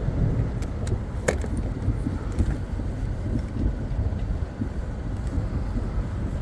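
Steady rough rumble of a vehicle on the move with wind buffeting, plus a few sharp clicks, one standing out about a second in.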